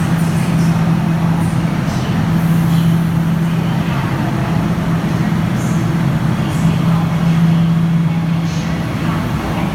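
Guangzhou Metro Line 1 train running steadily: a constant rumble with a steady low hum.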